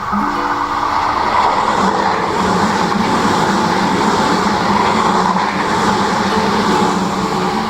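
Tobu Railway electric train running past, a steady rush of wheel-on-rail noise that swells about a second in and eases off near the end, with guitar music going on underneath.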